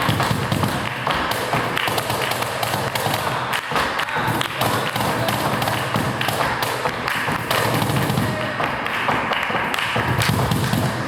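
Cajon drummed by hand in a fast, dense run of thumps and taps.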